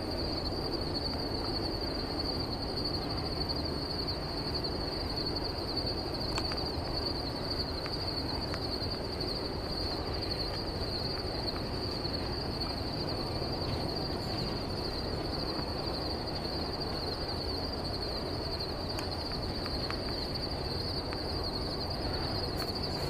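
Steady low rumble of a distant double-stack container freight train rolling past, with a steady high-pitched whine running over it.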